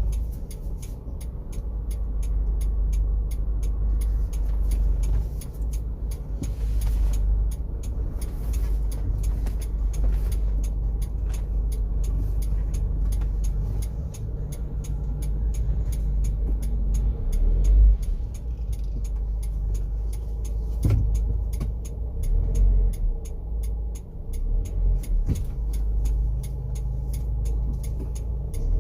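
First-generation Honda CR-V's engine and running noise heard from inside the cabin: a steady low hum with a thin steady whine above it, and a few louder thumps past the middle.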